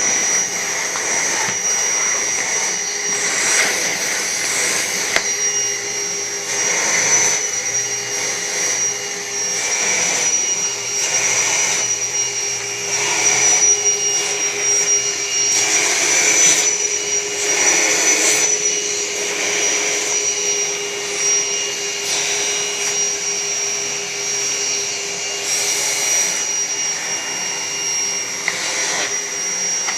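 Vacuum cleaner running steadily, with a high whine and a lower hum over a rushing air noise that swells and eases every second or two.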